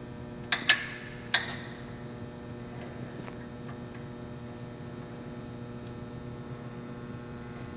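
South Bend 13" x 30" lathe with its 230 V three-phase motor running with a steady hum. Three sharp metal clunks come in the first second and a half as the lathe is taken out of back gear.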